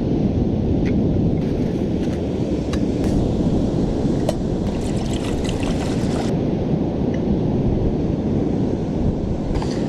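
Wind buffeting the microphone over the sound of surf: a steady, loud rumbling rush. A few sharp light clicks come through it, several close together about five seconds in.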